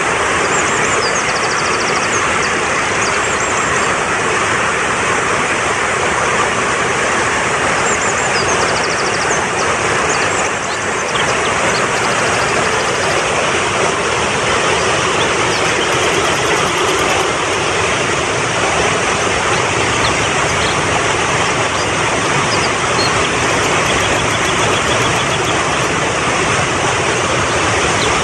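Fast-flowing mountain stream rushing steadily over rocks. Faint high bird chirps and trills come through it now and then.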